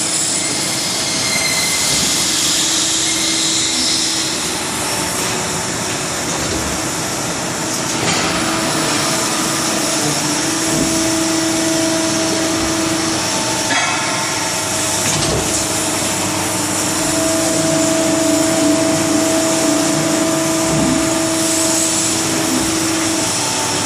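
Hydraulic CNC press brake and workshop machinery running: a steady hiss with a hum that comes and goes in stretches of a few seconds, and a few faint knocks.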